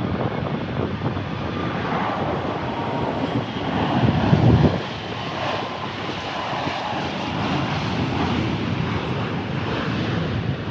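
Jet airliner's engines on landing approach: a steady, dense rush of engine noise that swells to its loudest about four and a half seconds in.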